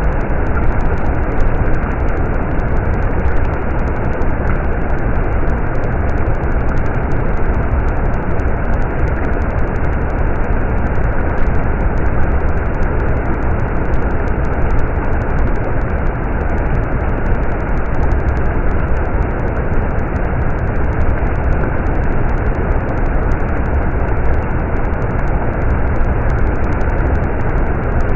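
Stream water flowing: a steady, muffled rush of running water with no breaks.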